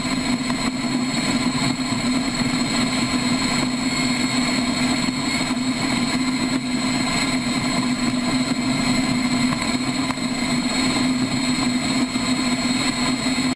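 Large motorcycle engine running at a steady speed, a constant hum with steady high-pitched tones over it and no revving.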